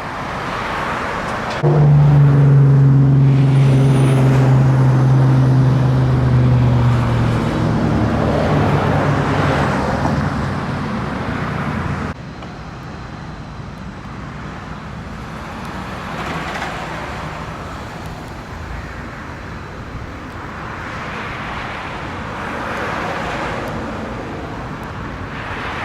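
Street traffic. A large vehicle's engine runs close by with a loud low drone that slowly drops in pitch and stops abruptly about twelve seconds in. Steady traffic noise with cars passing follows.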